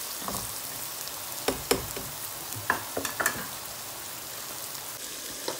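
Onion, tomato and spice masala sizzling in hot oil in a pan as it is fried (bhuna). A spatula stirs it, knocking against the pan a few times in the first half, then only the steady sizzle.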